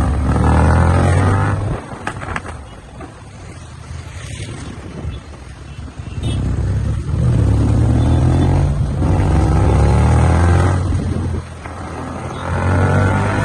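Sport motorcycle engine revving hard and accelerating, its pitch climbing in several pulls. There is a quieter stretch of lower engine noise between about two and six seconds in.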